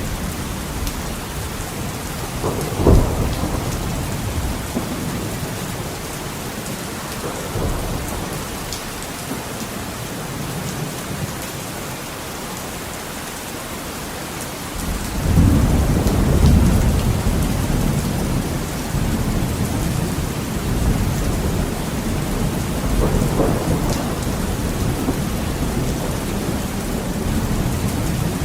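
Heavy rain on a window, with thunder. There is a sharp thunderclap about three seconds in, then a long, low rolling rumble that builds about halfway through and carries on under the steady rain.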